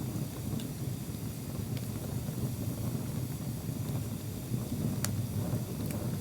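Wood bonfire burning: a steady low rumble with a few sharp crackling pops of the wood, the loudest about five seconds in.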